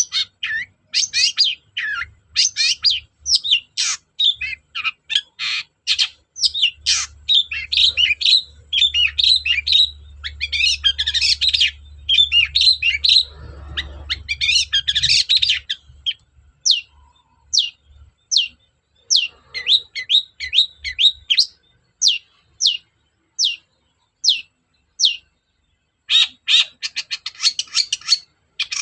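Long-tailed shrike (cendet) singing a loud, fast, varied chattering song. About midway it changes to a run of single high notes that sweep downward, roughly two a second, and it ends with a rapid trill.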